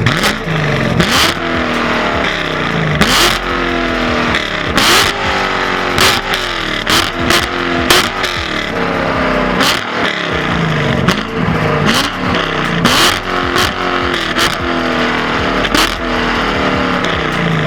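840-horsepower C7 Corvette V8 accelerating hard through the gears: the engine note climbs in pitch and falls back at each upshift, several pulls in a row, with brief sharp cracks at many of the shifts.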